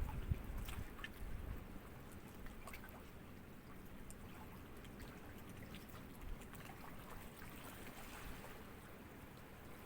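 Small sea waves lapping and trickling at the water's edge, with small splashes and drips; a louder wash in the first second and a half, then a steady soft lapping.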